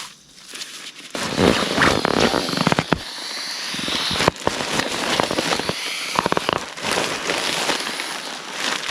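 Close, crackling rustle of something being handled, full of quick snaps and clicks, starting about a second in.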